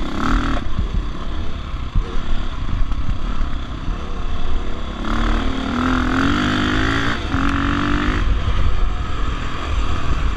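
Dirt bike engine running under throttle on a muddy trail ride, its pitch rising and falling as the rider works the throttle, with the revving most prominent from about five to eight seconds in.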